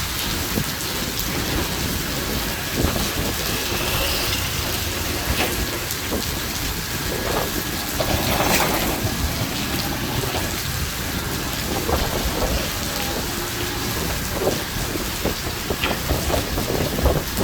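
Heavy monsoon rain pouring steadily, with many separate drops striking hard surfaces close by over a constant low rumble.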